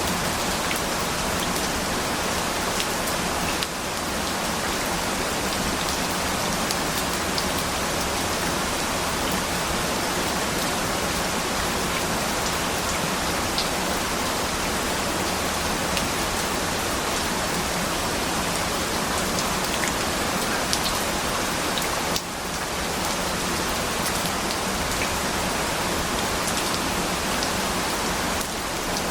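Steady rain falling, a dense even hiss with scattered small drop ticks, dipping briefly in level twice.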